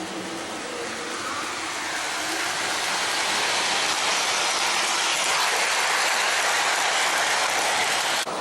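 O-gauge model train running on its track, a steady rolling wheel-on-rail rush that grows louder over the first few seconds as it nears, briefly dropping out near the end.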